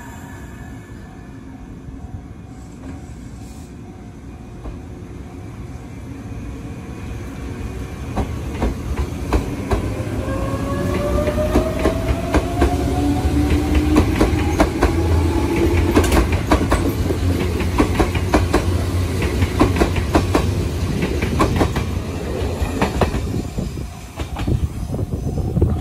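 Izu Kyuko 2100 series 'Resort 21' electric train pulling out of the station. A motor whine rises in pitch as it accelerates, and the wheels clack over the rail joints, louder and faster as the cars pass, then fade near the end as the last car goes by.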